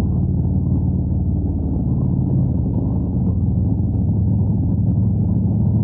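Harley-Davidson Road Glide's V-twin engine running steadily under the rider.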